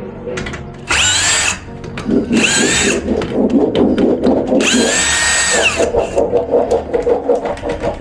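Cordless drill-driver run in three short bursts to unscrew fittings, its motor whine rising as it spins up and dropping as it stops, the last burst the longest. From about two seconds in, a steady rattling chatter runs beneath.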